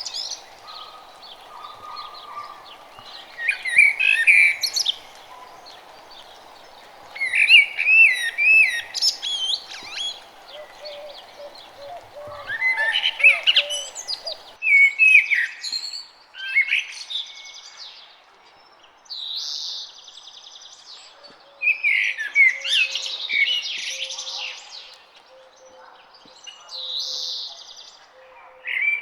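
Wild songbirds singing in short, varied warbling phrases repeated every few seconds, some phrases ending in buzzy trills.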